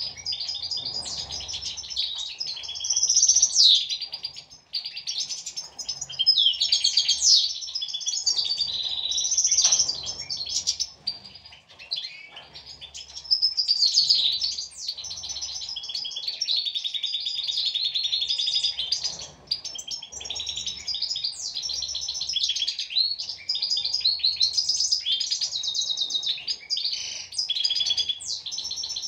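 European goldfinches singing: a continuous run of quick twittering notes and trills.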